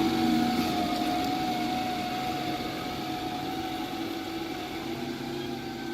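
Heavy diesel engine running steadily, growing gradually fainter.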